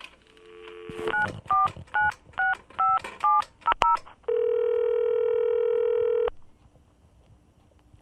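Touch-tone telephone: a brief dial tone, then a number keyed in as a quick string of about eight dual-tone beeps, followed by one two-second ringback tone as the call starts to ring through.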